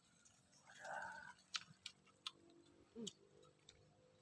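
Faint chewing with scattered small crunches and clicks: fried, smashed sparrow being eaten.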